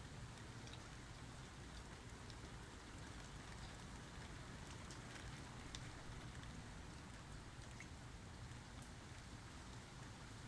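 Soft, steady rain falling, with scattered individual drops ticking and pattering through it.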